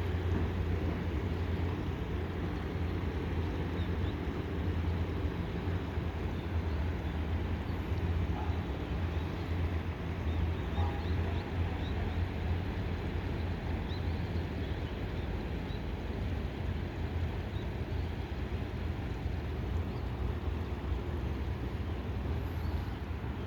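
Fishing boat's engine running steadily, a constant low drone with a rushing hiss over it.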